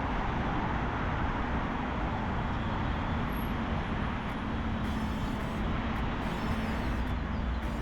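Steady city road traffic noise with a heavy low rumble, heard from a bicycle moving along a street.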